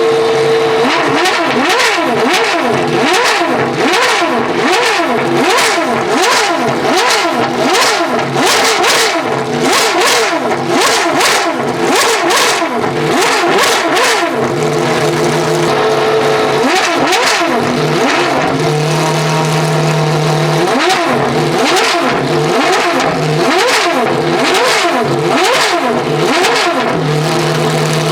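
Pagani Huayra R's naturally aspirated V12 being revved over and over, in quick blips that rise and fall about once a second. It settles to a steady idle a few times in between.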